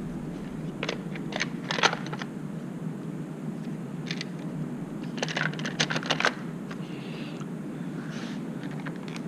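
Scattered light clicks and taps of airbox parts being handled and fitted into place by hand, in two clusters, about a second in and again around five to six seconds in, over a steady low hum.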